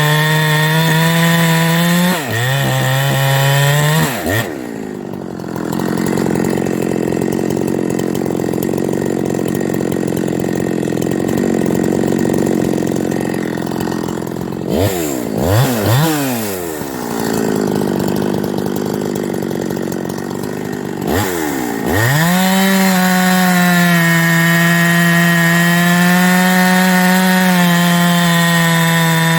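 Ported Farmertec clone of a Husqvarna 372XP two-stroke chainsaw bucking ash firewood. It holds high revs at first, then runs rougher and lower for a long stretch with a couple of quick throttle blips midway. About three quarters of the way in it climbs back to a steady full-throttle scream.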